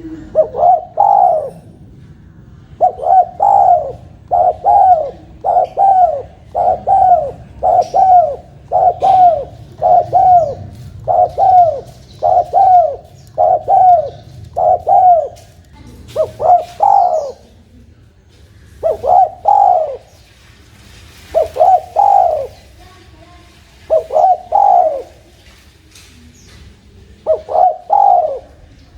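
Spotted dove (tekukur) cooing: a run of short two- and three-note coo phrases about once a second, then spaced out with pauses of a second or two between phrases in the second half.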